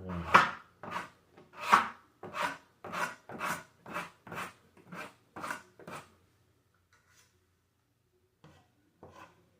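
Drywall knife scraping joint compound across a patched wall, about a dozen quick strokes at roughly two a second, then two fainter strokes near the end.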